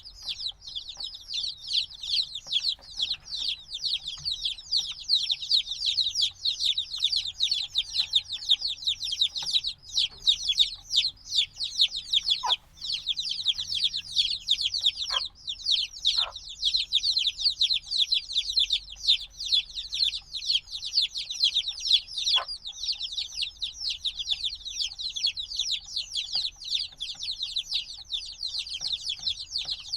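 A brood of newly hatched chicks peeping constantly, many high, short calls overlapping in a dense chorus, with a few faint clicks in among them. These are the loud distress-type peeps of chicks only a few days old, still wanting warmth from the mother hen.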